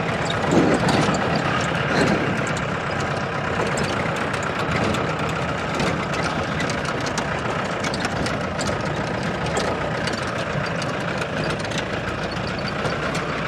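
Off-road jeep's engine running steadily as it drives over a rough, rutted track, with frequent small rattles and knocks from the body, heard from inside the cabin.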